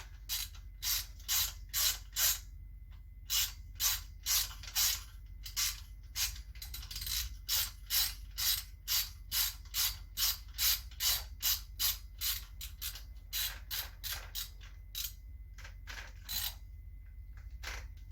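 Socket ratchet wrench clicking in short repeated strokes, about two a second, unscrewing a bike nut that was seized on and has just been broken loose.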